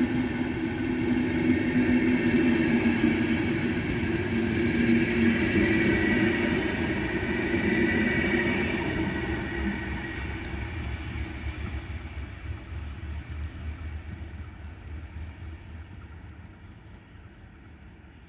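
Passenger train running past on the rails: a rumble with a steady whine on top, which fades away over the second half as the train moves off.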